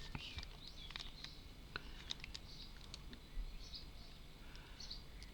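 Faint scattered ticks and soft rustles of small paper stickers and wooden model parts being handled.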